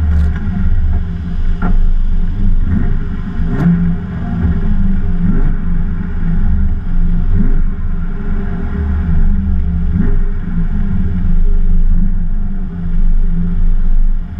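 BMW E30 325i race car's straight-six engine running at low revs, heard from inside the cabin as the car crawls along at walking pace, with small rises and falls in engine speed. A few sharp clicks come in the first few seconds.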